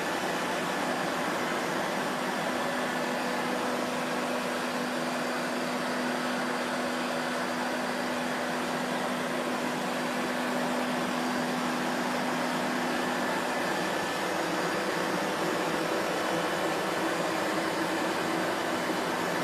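Vacuum cleaner running steadily: an even rushing noise of motor and airflow, with a faint low hum in it that drops away about two-thirds of the way through.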